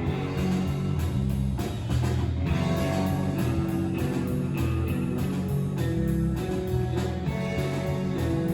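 Surf rock band playing live: electric guitar lines over bass and a steady drum-kit beat.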